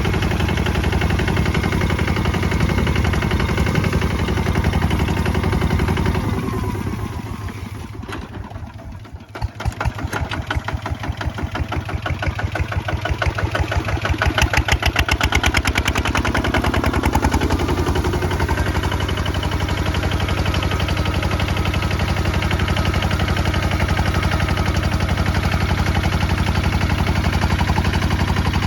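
Kubota ZT155 single-cylinder diesel engine running steadily. About seven seconds in it slows and drops away, then its separate firing beats come back, quickening and growing louder until it is running steadily again.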